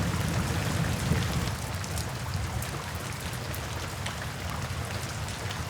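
Steady rain with scattered drops ticking, over a low thunder rumble that dies away about a second and a half in.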